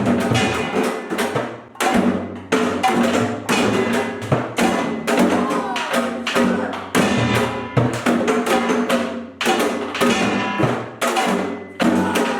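Korean pungmul ensemble of janggu hourglass drums and buk barrel drums playing a fast driving rhythm, led by a kkwaenggwari small gong ringing over the drum strokes.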